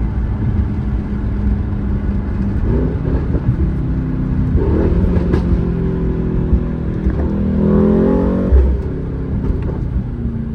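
Straight-piped Mercedes-AMG GT63 S's twin-turbo V8 exhaust rumbling under way, rising in pitch as the car accelerates about halfway through and again, loudest, near the end.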